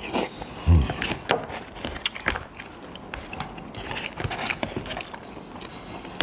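A person chewing food, with a metal spoon and fork clicking and scraping in a paper food box. A low thump about three quarters of a second in is the loudest sound.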